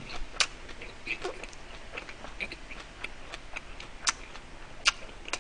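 A person chewing a large mouthful of food with the mouth closed, close to the microphone: irregular small wet clicks, a few sharper ones about half a second in and again after four seconds.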